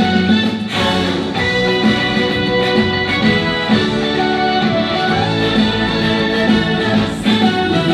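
Live band music: an instrumental passage with a steady beat and no vocals.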